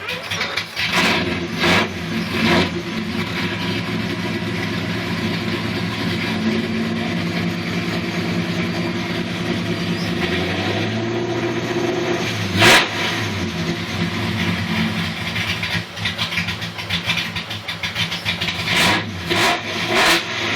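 Carbureted, cammed V8 of a Ford SVT Cobra Mustang running on a cold start and struggling to hold an idle. A few short loud surges break the idle, a cluster of them in the first few seconds and more near the end, and the pitch rises for a moment around the middle.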